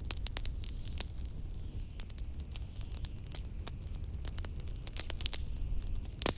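Fireplace crackling with a steady run of small, sharp pops and one louder crack near the end, over a steady low rumble of blizzard wind.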